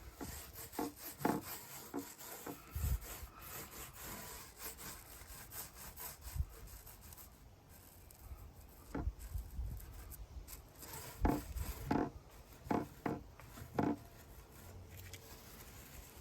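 Hands rubbing over the fiberglass coating on a wooden drum shell, with irregular rubbing and scattered light knocks and clicks, quieter for a couple of seconds in the middle and busier with knocks for the next few seconds.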